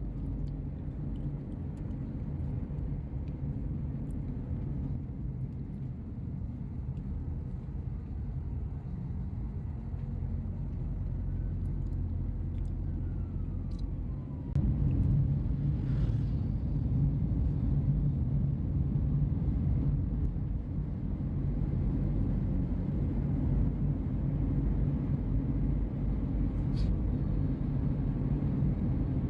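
Passenger ferry's engines running, a steady low drone with a hum that gets louder about halfway through.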